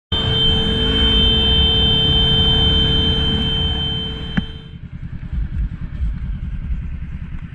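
Motorcycle engine running, heard from on board with road noise and a steady high tone over it; about four and a half seconds in the tone stops and the engine sound eases and gets quieter.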